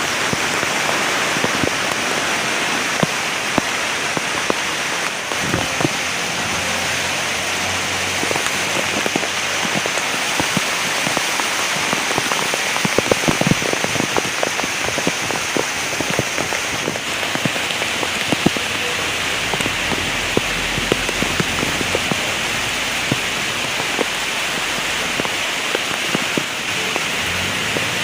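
Heavy rain falling steadily, with many sharp drop splatters close by.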